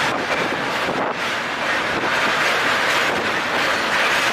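Running noise of a passenger train's LHB coaches in motion, heard from outside the coach, with a steady rush of wind across the microphone.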